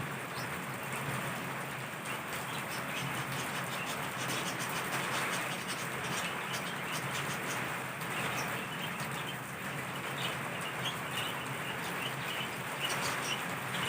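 Heavy rain falling steadily, with many small drop ticks over an even hiss.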